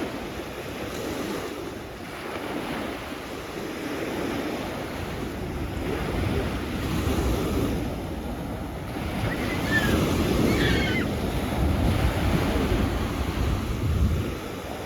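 Sea waves washing onto the shore, swelling and easing over several seconds, with wind buffeting the microphone.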